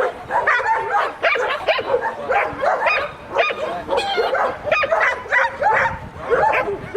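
A dog whining and yipping over and over in quick, high-pitched calls that bend up and down in pitch.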